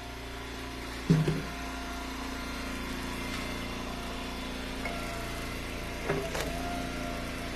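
Log splitter's engine running steadily, with a short knock about a second in and another about six seconds in as rounds are handled and split.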